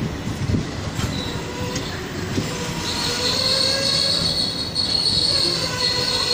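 Freight train of petrol tank wagons rolling past close by: a steady rumble with clicks from the wheels, and from about three seconds in a high, steady wheel squeal.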